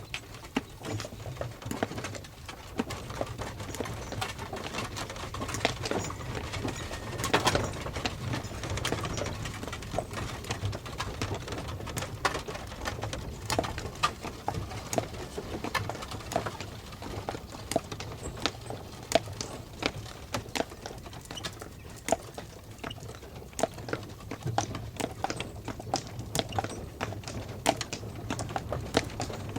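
Hooves of a four-horse team drawing a stagecoach, clip-clopping in a quick, irregular patter over a steady low rumble.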